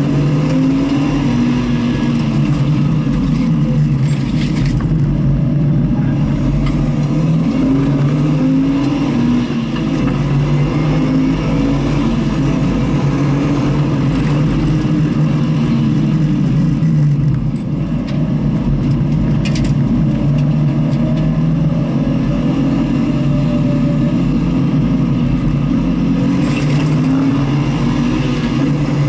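Car engine under hard driving on a circuit course, its pitch climbing and dropping back again and again as it revs through the gears and lifts off. The loudness dips briefly twice, about a third and about two-thirds of the way in.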